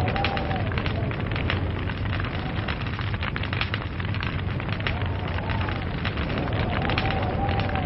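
Log fire burning, with dense, rapid crackling over a steady low rumble.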